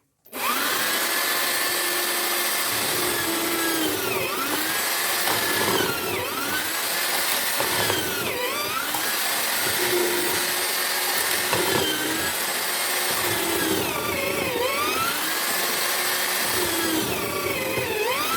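Homemade drill-powered mortising machine switched on and running steadily. Every couple of seconds its pitch dips briefly and recovers as the chisel bit is pushed into the wood and the motor slows under load.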